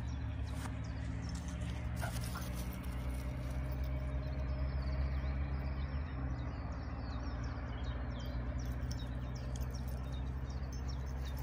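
Faint bird chirps through a steady low hum.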